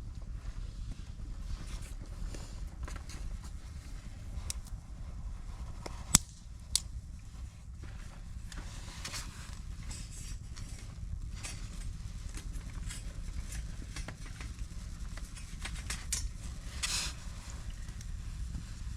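Wood campfire crackling, with scattered small snaps and two sharp pops about six seconds in, over a low steady rumble.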